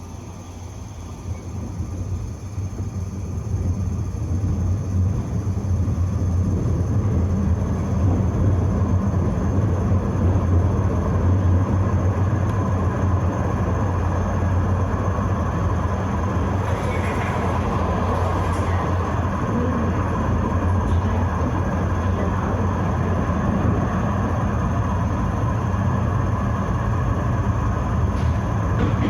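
Vienna tram pulling away and running along the rails: a low, steady rumble of motors and wheels that builds over the first five seconds or so, then holds.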